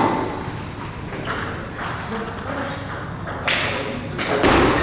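Table tennis ball being struck back and forth in a rally: a handful of sharp clicks of ball on paddle and table, irregularly spaced.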